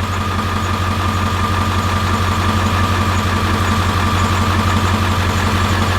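Ford 7.3 Powerstroke turbo-diesel V8 idling steadily with a steady high whine over the low engine hum, its exhaust open after the downpipe.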